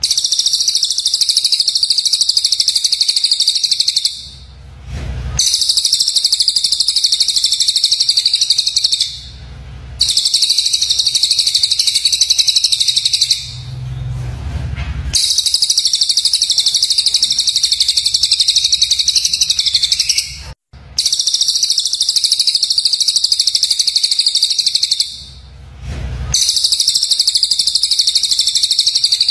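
Recorded songbird song of harsh, rapid, high-pitched chattering ('tembakan') phrases, coming in about six bursts of four to five seconds each with short breaks between them.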